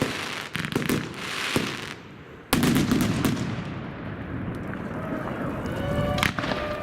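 Fireworks going off: a rapid run of sharp crackling bangs, then after a short lull a sudden loud burst that carries on as a steady rumble of distant explosions. Near the end a held pitched tone sounds over it.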